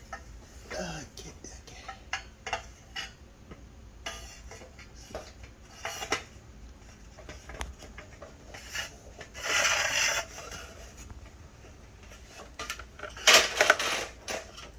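Small metal shower fittings and washers clinking and knocking as they are handled and fitted, with a short scraping rub about ten seconds in and a cluster of louder knocks near the end.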